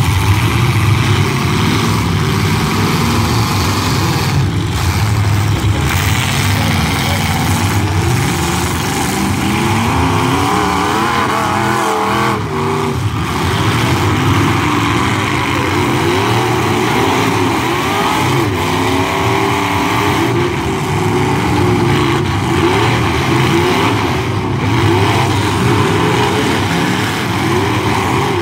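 Demolition derby truck engines revving hard, their pitch climbing and falling again and again over a loud, steady din.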